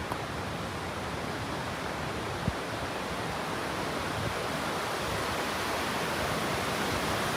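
Steady rushing water, slowly growing louder, with a single short click about two and a half seconds in.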